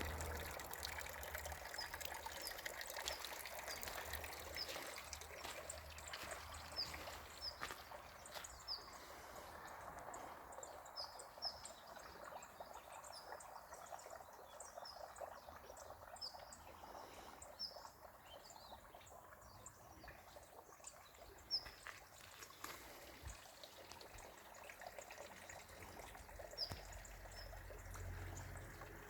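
Water trickling and splashing down a small three-tier garden cascade, with short high bird chirps repeating over it for much of the time.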